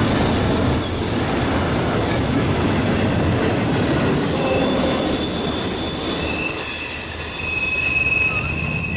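Intermodal freight train cars rolling past on the rails with a steady loud rumble and clatter, and a high wheel squeal that comes in more clearly about two-thirds of the way through as the rumble eases.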